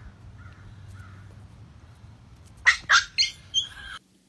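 A bird squawking: a few faint calls, then about four loud squawks in quick succession near the end, cut off abruptly.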